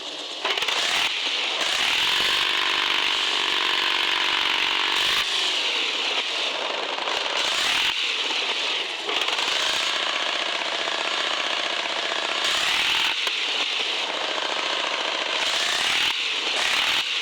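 Radio-controlled 4x4 truck's small electric motor and gearbox whining under load, the pitch rising and falling with the throttle several times over a steady harsh buzz.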